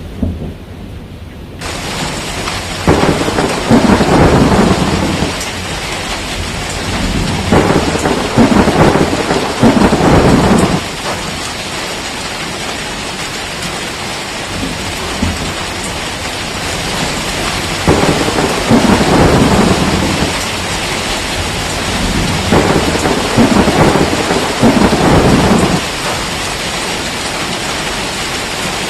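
Steady heavy rain hissing, with thunder rolling in four long rumbles that swell up and die away. The rain sound comes in suddenly about a second and a half in.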